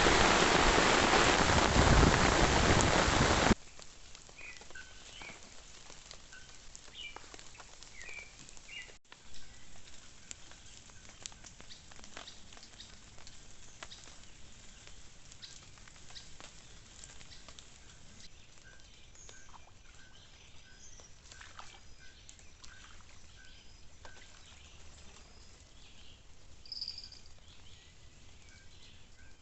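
Steady heavy rain that cuts off suddenly a few seconds in, giving way to quiet natural ambience with faint short chirps from small animals, repeating in runs, and scattered light ticks.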